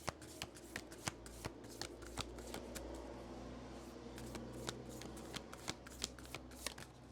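A deck of oracle cards being shuffled by hand: a quick, irregular run of card flicks and snaps.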